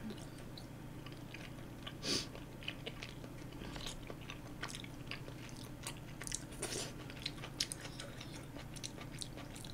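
A person chewing spicy tteokbokki (chewy rice cakes) close to the microphone: scattered soft, wet mouth clicks and smacks, over a faint steady low hum.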